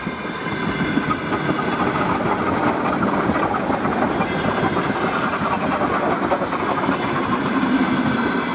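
Electric multiple unit passing close by, its wheels running on the rails in a steady rumble; the sound swells as the front car reaches the listener and holds as the coaches go past.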